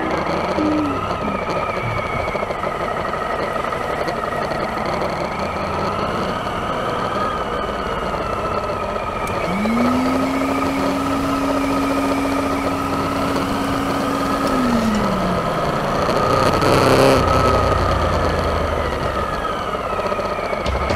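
Suzuki V-Strom 1000's V-twin engine purring through its stock exhaust while the bike rides along a dirt track. The revs rise about ten seconds in, hold for a few seconds, then fall away.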